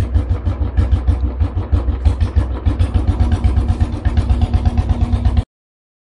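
Royal Enfield Bullet motorcycle's single-cylinder engine running with a fast, even low beat. It cuts off suddenly about five and a half seconds in.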